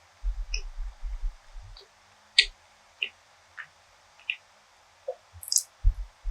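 Close-miked eating sounds: low muffled chewing thumps for about the first second and a half, then scattered sharp mouth clicks and smacks, with another low chewing thump near the end.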